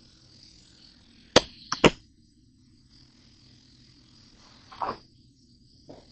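Three sharp knocks of hard objects in quick succession about a second and a half in, then a softer, duller knock or scrape near five seconds and a faint one near the end, over a faint steady hiss.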